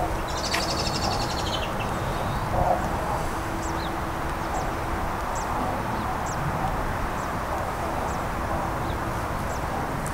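Small birds chirping in the trees: a quick high chattering trill about half a second in, then short, thin downward-sliding chirps every half second to a second, over a steady rush of background noise.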